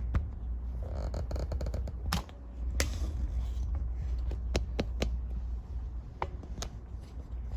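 Room tone: a steady low hum with a scattered handful of small sharp clicks and faint rustles.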